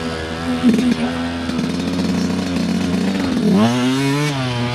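Dirt bike engine running under load on a trail ride, holding a steady pitch, then revving up and back down about three and a half seconds in.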